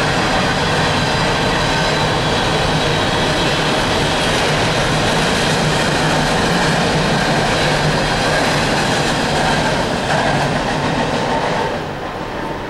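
Empty coal train's open coal cars rolling past at speed: a loud, steady rumble of steel wheels on the rails. The sound drops off noticeably near the end.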